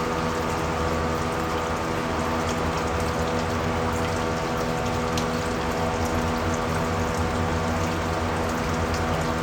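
A steady mechanical hum made of several steady tones, over an even hiss like running water, with faint scattered clicks.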